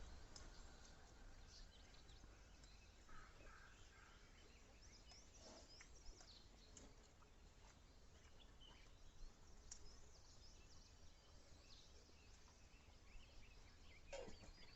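Near silence outdoors with a low background hum and faint, scattered high bird chirps.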